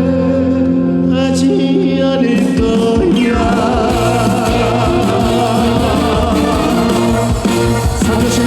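Live trot song performed with a band, with a singer's voice holding long, wavering notes over the accompaniment from about three seconds in.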